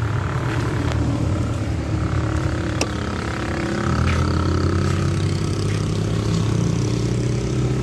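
A vehicle engine running steadily, its low hum growing louder about four seconds in, with one sharp click partway through.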